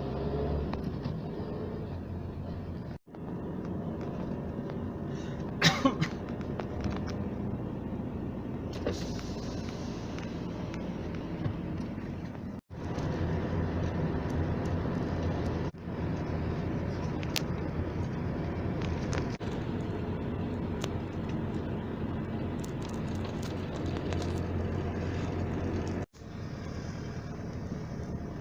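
Steady low hum of a vehicle driving, heard from inside, with one sharp clack about six seconds in. The sound breaks off for a moment three times.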